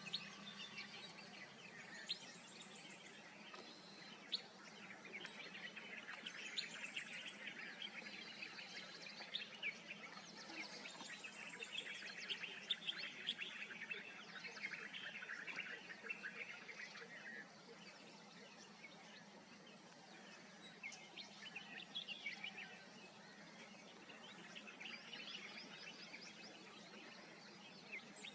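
Wild birds chirping and calling in a rapid, overlapping chatter of short notes over faint steady background noise, busiest in the first half and thinning out after about 17 seconds.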